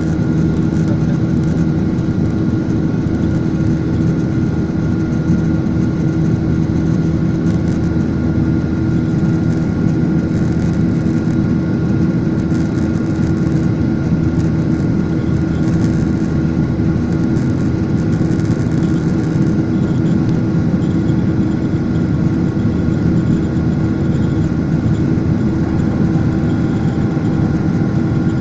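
Airliner engines running steadily: a constant loud drone with a few steady hum tones, holding level throughout.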